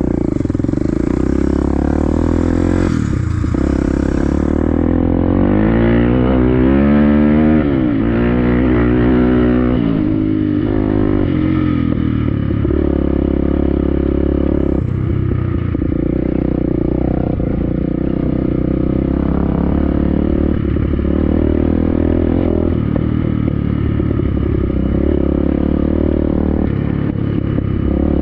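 BSE Z5 dirt bike engine running under load. Its revs climb and drop again and again, with brief dips between runs, over a clattering, rattling bike.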